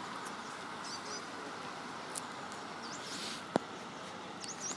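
Steady outdoor background noise with a few short, high bird chirps and one sharp click about three and a half seconds in.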